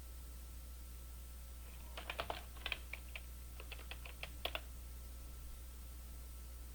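Computer keyboard typing: a short run of about a dozen keystrokes lasting two to three seconds, over a faint steady low hum.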